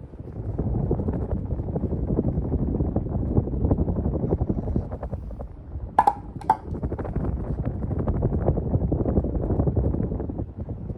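Hunter Original ceiling fan running, its air stream buffeting the microphone with a fluttering low rumble. Two sharp clicks come about six seconds in.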